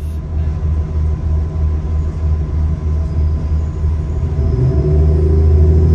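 Moving passenger train heard from inside the carriage: a steady low rumble that pulses a few times a second, growing louder near the end.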